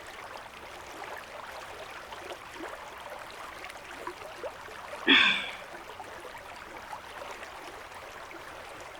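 Nolichucky River running steadily over rocks, a constant rush of water. About five seconds in comes one short sound from a person's voice.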